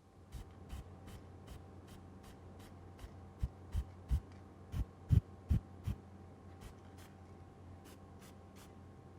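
Rhythmic scratching or rubbing strokes of hand-tool work on a small metal model, about two to three strokes a second, over a steady low hum. A run of dull knocks, the loudest sounds, comes in the middle.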